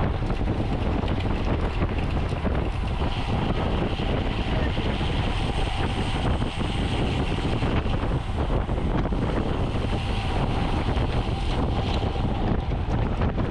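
Steady rush of wind over the microphone of a camera on a road bicycle moving at racing speed, with faint tyre and drivetrain hum underneath.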